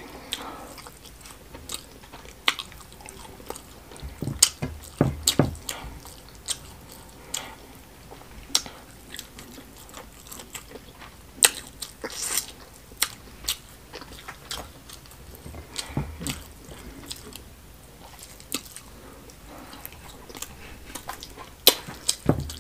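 Close-miked chewing and biting of smoked catfish stew with rice, with many irregular sharp wet mouth clicks and a few soft low thumps about four to five seconds in.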